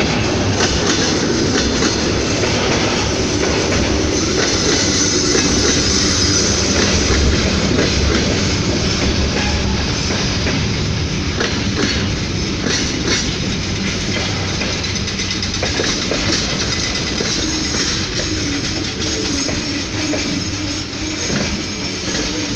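Freight train wagons rolling past with the clickety-clack of wheels over rail joints, easing slightly in loudness toward the end.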